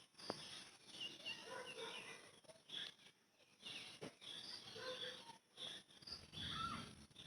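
Faint outdoor ambience of scattered short animal calls, mostly brief chirps like birds, over a soft background of insects, with a louder, lower sound near the end.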